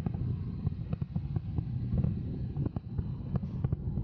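Wind rumble on the microphone, with distant fireworks bursting as an irregular run of sharp pops, several a second.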